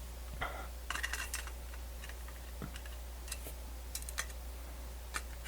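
Scattered light clicks and taps of small parts of a portable MiniDisc player being handled, with a steady low hum underneath.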